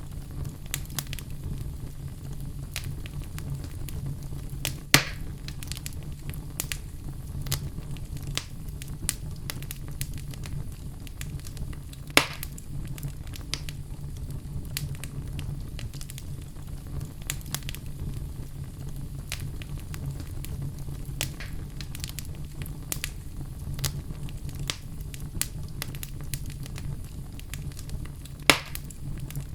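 Wood fire crackling: a steady run of small snaps and pops from burning logs over a low rumble, with three louder, sharper pops, about five seconds in, about twelve seconds in, and near the end.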